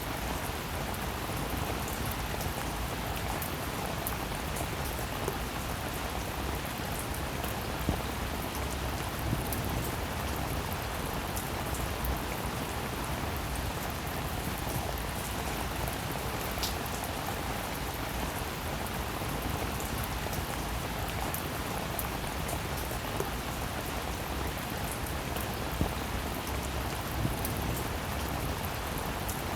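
Steady, even rainfall, with individual drops ticking through it and a few landing louder now and then.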